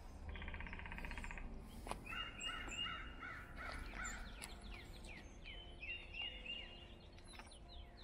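Wild birds calling: a short buzzy trill about a second long, then a quick run of repeated rising-and-falling notes, about four a second, and a few more calls near the end, over a faint low rumble.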